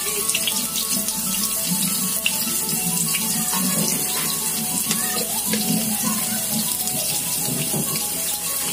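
Sliced red onion and curry leaves sizzling in hot oil in a frying pan: a steady hiss with fine crackles. Background music plays underneath.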